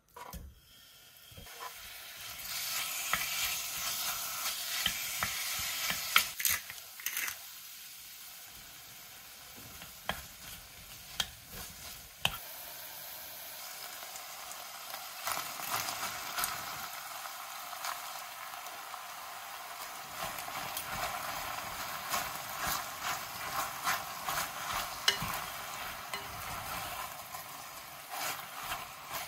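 Diced pork and kimchi frying in oil in a stainless steel pot, a steady sizzle that starts about two seconds in. Metal tongs click and scrape against the pot as the food is stirred.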